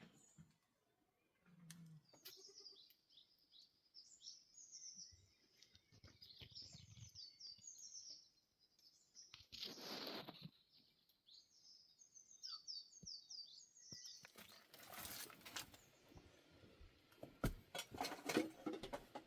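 A small songbird chirping in quick runs of short, high, downward-sliding notes, broken by a short noisy burst about halfway. Near the end the chirping gives way to rustling and a few knocks.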